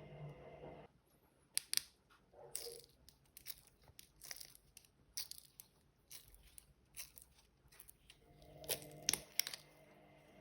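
Washing machine: the motor's hum stops about a second in, and a run of irregular clicks and crackles follows. The motor hum starts again near the end, as in a drum pause-and-restart.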